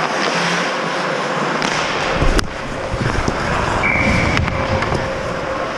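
Ice hockey play heard from the goal: a steady hiss of skates on ice and rink noise, with one sharp crack about two and a half seconds in.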